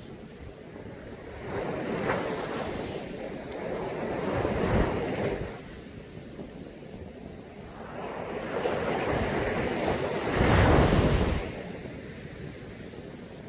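Sea waves breaking and washing up on a beach, swelling three times; the loudest break comes about eleven seconds in.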